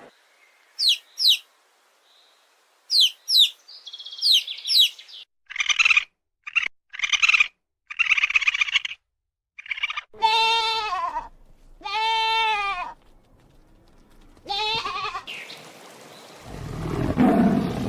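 A string of different animal calls: quick downward-sweeping chirps in the first few seconds, then a run of short buzzy calls, then two long pitched calls that rise and fall, and a low rumbling sound near the end.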